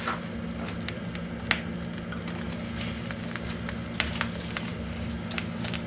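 Oak firewood burning in a wood stove, crackling with scattered sharp pops and snaps over a steady low hum.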